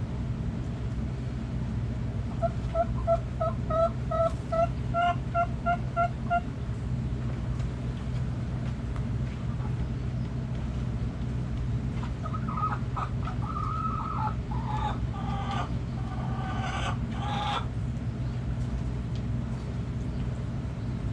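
Chickens calling: a hen clucks about a dozen times at an even pace of roughly three a second, then about halfway through a longer, louder string of squawking calls follows. A steady low hum runs underneath.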